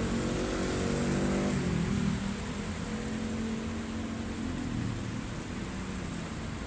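Heavy rain hissing steadily on the pavement. A motor vehicle's engine runs underneath for the first two seconds or so, then fades away.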